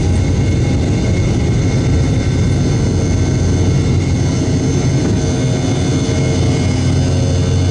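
Boeing 717-200's rear-mounted Rolls-Royce BR715 turbofans running steadily at high thrust during takeoff, heard inside the cabin as a loud low rumble with a steady engine whine held at one pitch.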